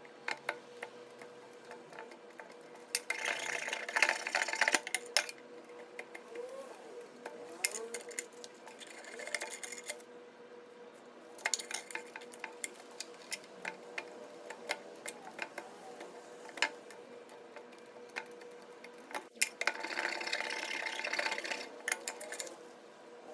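Metal clinks and scraping from a rusty steel chisel being handled and worked. Scattered sharp clicks run throughout, with four scratchy bursts of one to two seconds each, over a faint steady hum.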